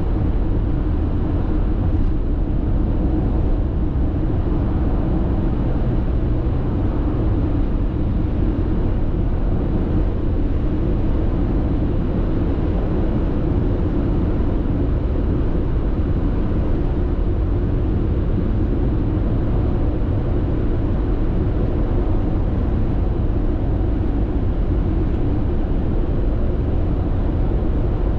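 Steady road noise heard inside a car's cabin while cruising on an expressway: tyre roar and engine hum, strongest in the low range, unchanging throughout.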